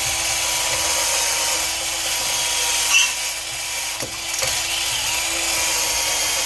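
Power drill running steadily with a constant whine as it cleans out the bore for the lower ball joint. The pitch sags briefly near five seconds in as the drill takes load, then recovers, and there are a few light knocks.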